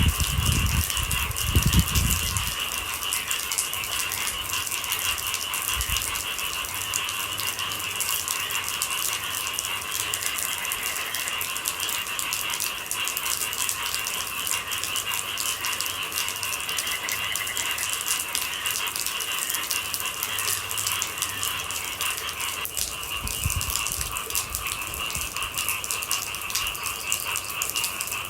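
Rain falling in a dense, even pattering, with a steady high-pitched chorus of night animals underneath. A low rumble sounds in the first couple of seconds and again about 23 seconds in.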